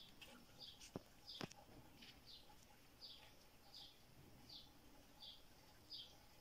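Near silence with a bird chirping faintly and steadily, one short chirp about every three-quarters of a second. Two soft clicks come about a second in.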